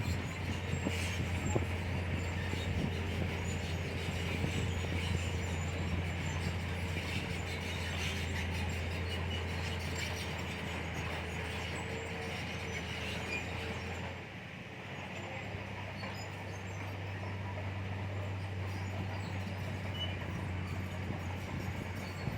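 Komatsu bulldozer's diesel engine running steadily under load, with metallic clatter from the tracks. The engine note drops briefly about fourteen seconds in, then settles at a slightly higher hum.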